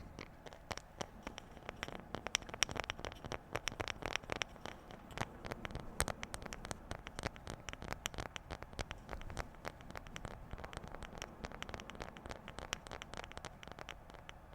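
Fast, light tapping on objects, many irregular taps a second, slowing somewhat near the end.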